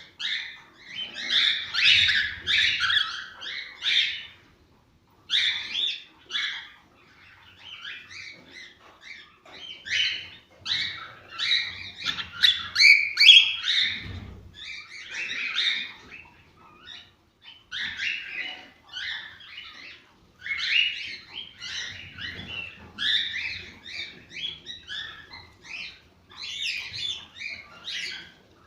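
Cockatiels singing: chattering, warbled phrases in bursts of a second or two, broken by short pauses.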